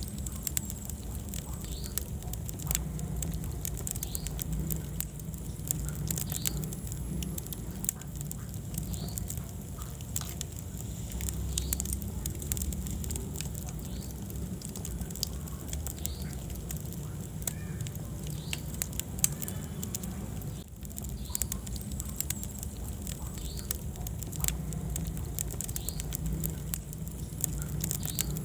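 Wood fire in a fireplace burning steadily, with frequent sharp crackles and pops over a low, steady rumble of flame.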